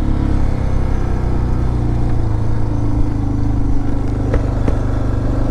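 Suzuki DR650's single-cylinder four-stroke engine running at a steady cruise while the motorcycle is ridden, with two faint clicks about four and a half seconds in.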